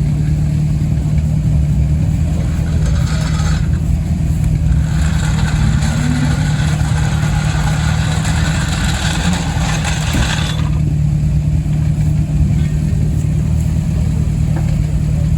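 Classic Mini rally car's four-cylinder A-series engine running at a steady pitch, heard from inside the car. A rushing hiss of tyre or road noise joins about three seconds in and drops away around ten seconds.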